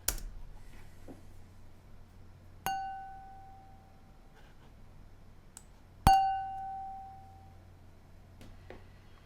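A wine glass struck twice, each tap ringing on as a clear pure tone that fades over about a second and a half; the second tap is louder.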